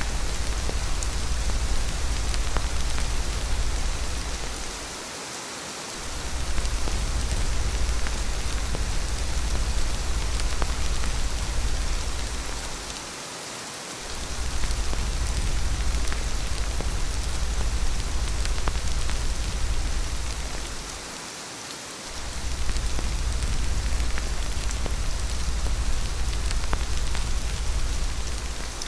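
Steady rain falling, with a strong low rumble underneath that fades out for about a second roughly every eight seconds, three times.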